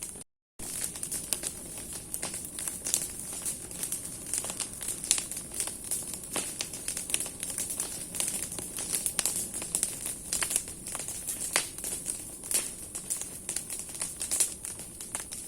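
Large wood fire of burning branches, crackling with many sharp irregular pops over a steady hiss. The sound cuts out completely for a moment just after the start.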